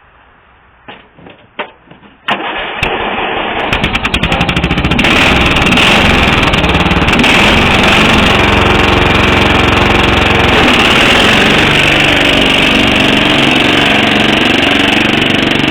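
Riding lawn mower engine with a modified exhaust being cranked and starting about two seconds in, after a few clicks, then running loud and steady.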